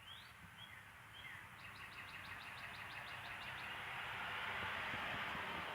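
Cicada drone swelling steadily louder over several seconds, with a few bird chirps near the start and a quick run of ticks partway through.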